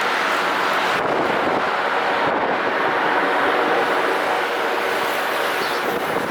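CFM56-7B jet engines of a Boeing 737-900ER on its landing, a steady loud roar of jet noise that eases off slightly toward the end.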